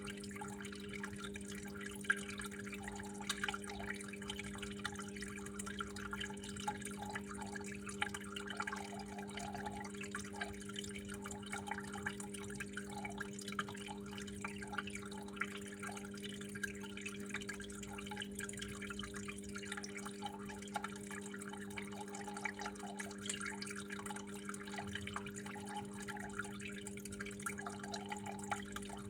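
Water flowing and dripping steadily, with irregular splashes and a few sharper drips, over a steady low hum.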